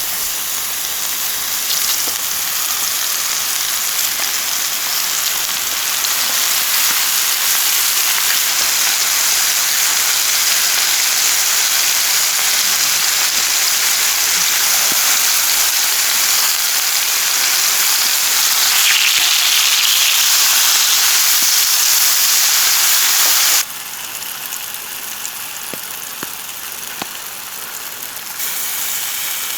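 Heavy steady rain, a dense hiss. About 24 seconds in it drops suddenly to a quieter hiss with a few faint ticks, then grows louder again near the end.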